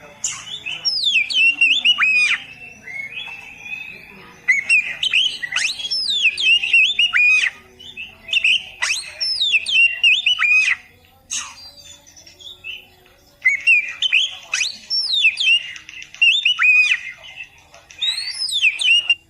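Oriental magpie-robin (kacer) singing: four bursts of rapid, varied phrases made of sharp down-slurred whistles and chattering notes, each a few seconds long with short pauses between.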